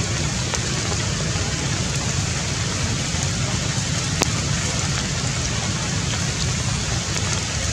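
Steady rain falling on forest leaves, with scattered sharp taps of drops and one louder tap about four seconds in, over a steady low rumble.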